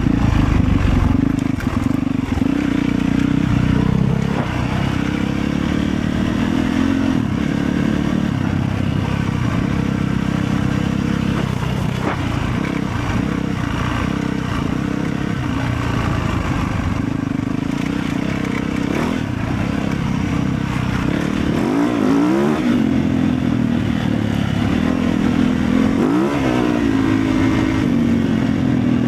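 Motorcycle engine running steadily, its pitch rising and falling briefly twice in the last third as the revs change.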